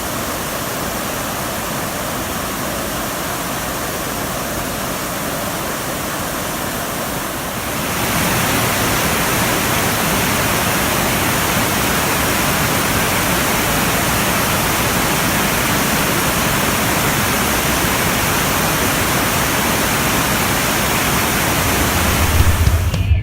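Rain-swollen stream rushing in a steady, even wash of water noise, which steps up in loudness about eight seconds in. A low hum comes in just before the end.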